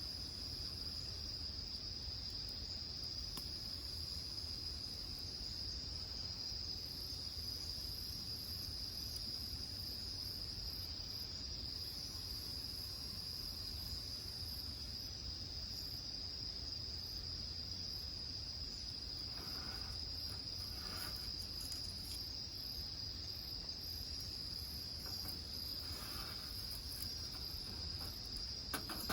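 Insect chorus: one continuous high trill that holds steady throughout, over a low rumble, with a few faint clicks about two-thirds of the way through.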